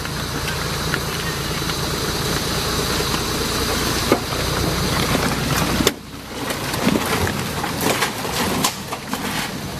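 Toyota Land Cruiser engine running steadily while the four-wheel drive is bogged in deep mud. About six seconds in the sound drops suddenly, and a quieter engine with scattered knocks and clicks follows.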